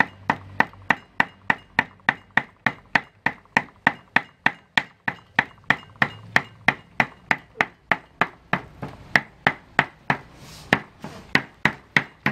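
Cleaver mincing pork on a wooden chopping board: fast, even chops at about four a second, each with a short metallic ring.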